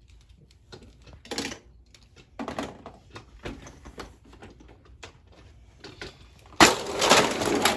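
Scattered plastic clicks and clatters of toy monster trucks and a plastic playset being handled, then a loud rushing noise starting near the end.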